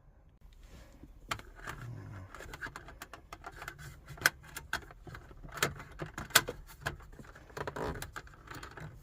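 Plastic dashboard trim around a car radio being pried and worked loose by hand: a run of clicks and rattles with several sharp snaps as clips let go.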